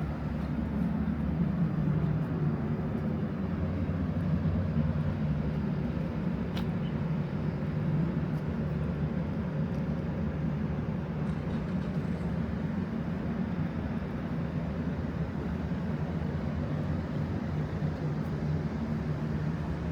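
Street traffic dominated by a low vehicle engine rumble, its pitch falling over the first few seconds as the vehicle slows, then running steadily.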